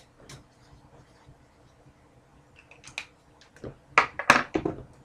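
A few sharp clicks and taps of trading cards being handled on a table, with a louder cluster about four seconds in.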